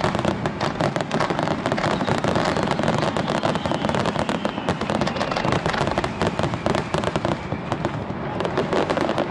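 Fireworks display: a dense, unbroken run of bangs and crackling bursts, many shells going off at once.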